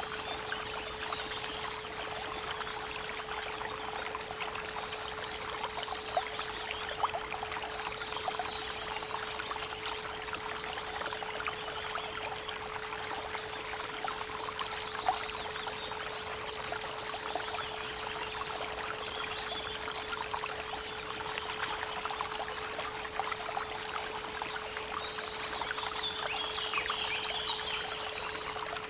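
Creek water trickling and splashing steadily, with birds singing short high trills now and then, all over a steady 432 Hz pure tone.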